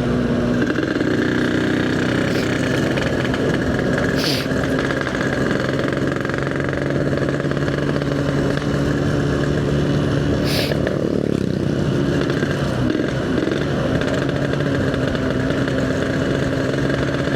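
Yamaha RX-King two-stroke motorcycle engine with an EnzyProject aftermarket exhaust, running steadily while being ridden. About eleven seconds in, the engine note dips briefly and then picks up again. Two short hissing bursts come about four and ten seconds in.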